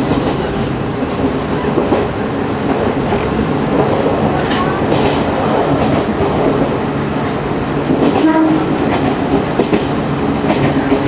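Chichibu Railway 1000 series electric train (a former JNR 101 series) running along the line, with a continuous rumble and motor hum and irregular clicks of the wheels over rail joints. The noise grows briefly louder about eight seconds in.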